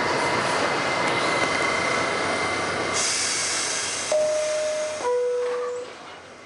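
R68 New York City subway car running with a faint steady whine, then a sudden burst of air hiss about three seconds in. This is followed by the two-note descending door chime, a higher tone and then a lower one, each lasting under a second, as the train runs down and goes quiet.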